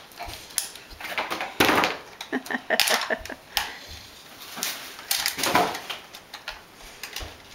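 Irregular knocks and clattering with a few louder bangs.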